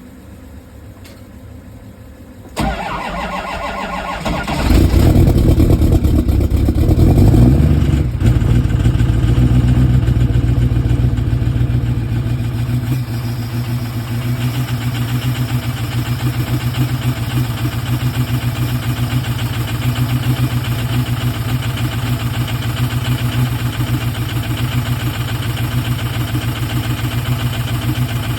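Ford 6.0 Power Stroke V8 turbodiesel cold-starting at about −1 °F without its block heater plugged in. The starter cranks for about two seconds, then the engine catches and runs loud for a few seconds before settling into a steady idle.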